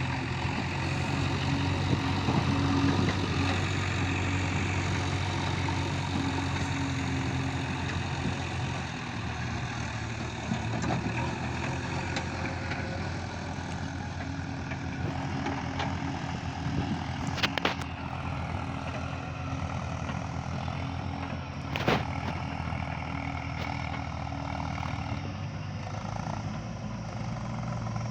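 Diesel engine of a JCB 3DX backhoe loader running steadily, its note shifting about a third of the way in and again near the end. Two sharp metallic knocks come in the second half; the second is the loudest sound.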